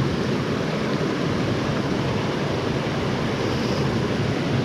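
Steady rushing of creek water, an even noise with no breaks.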